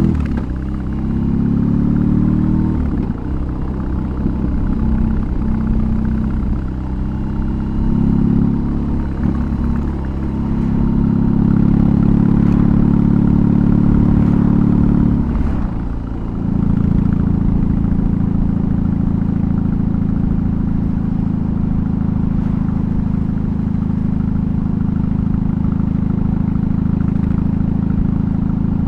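BMW R18's 1802 cc boxer-twin engine running while the bike is ridden. The engine note rises and falls over the first third, holds strong for a few seconds, dips briefly a little past halfway, then settles into a steady cruise.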